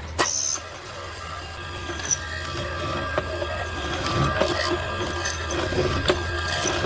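Wood being worked with hand tools: rubbing and scraping with scattered sharp knocks, over a steady low hum.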